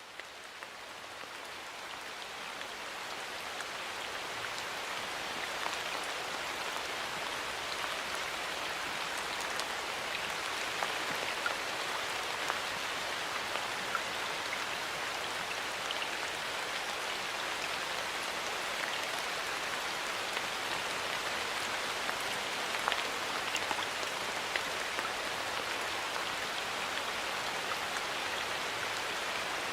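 Light rain falling in a forest: a steady hiss of rain with scattered individual drop taps. It fades in over the first few seconds, then holds even.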